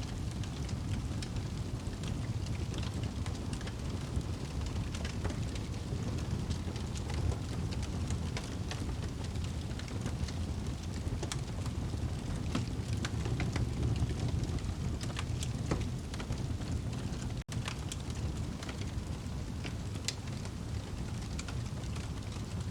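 Wood fire burning in a fireplace: a steady low rumble of the flames with frequent irregular crackles and pops from the burning logs. The sound drops out for an instant about three-quarters of the way through.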